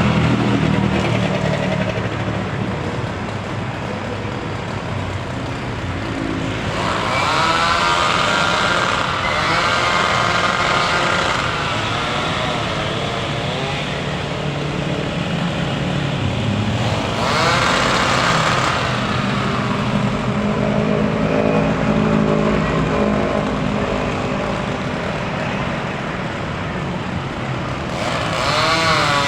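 Small petrol engines running and revving, their pitch rising and falling over a few seconds at a time, louder around 7 to 11 seconds in and again near 17 to 19 seconds and at the end.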